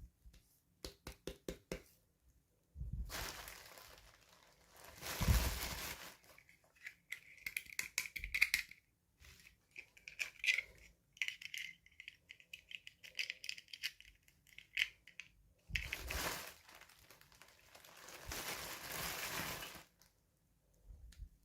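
Toy packaging being handled and torn open: plastic and paper crinkling and tearing. A quick run of small clicks comes near the start, and a squeaky, buzzing peel runs through the middle.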